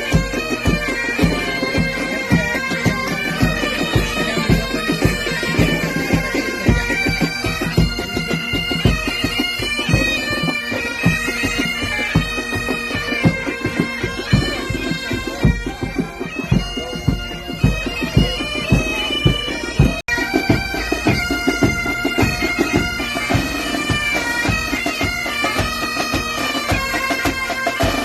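Military pipe band playing: bagpipes sounding a melody over their steady drone, with drums beating a regular march rhythm. The music breaks off for a split second about two-thirds through.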